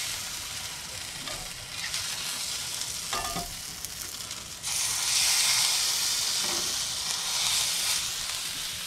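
Broth-soaked tortilla tacos sizzling in oil on a hot griddle (plancha), a steady frying hiss that gets louder about halfway through as another taco goes down.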